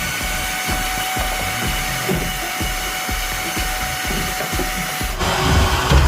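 Power tool motor running with a steady whine; about five seconds in the sound changes and gets louder and rougher.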